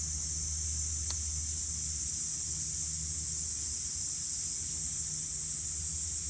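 Cicadas droning in a steady, unbroken high-pitched chorus, with a faint low hum underneath and one small click about a second in.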